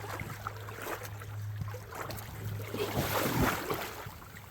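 Low wind rumble on the microphone with scattered light crunches and rustles, busiest about three seconds in.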